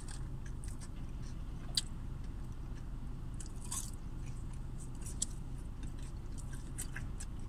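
A person chewing a french fry topped with ice cream: quiet mouth clicks and chewing over a steady low hum.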